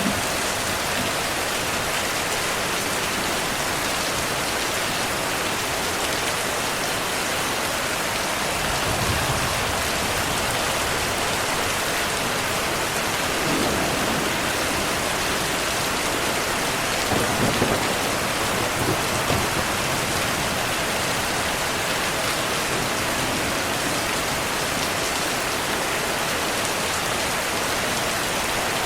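Steady rain falling, an even hiss, with low distant thunder rumbling in swells about a third of the way in and again around halfway through.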